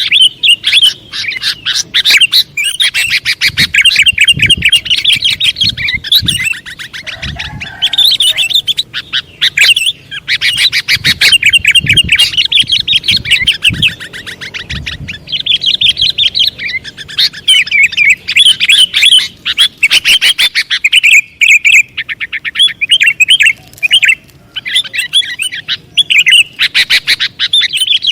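Sooty-headed bulbul (kutilang) calling and chirping loudly in rapid runs of repeated notes, with short breaks between phrases: a lure (pikatan) call recording for drawing in wild bulbuls. A few faint dull thumps sit underneath in the first half.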